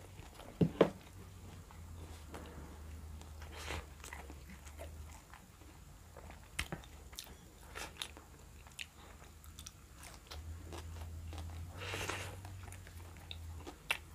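Close-up mouth sounds of a person eating fried pyaji fritters dipped in tomato pickle: a sharp crunchy bite about a second in, then quieter chewing with small wet clicks.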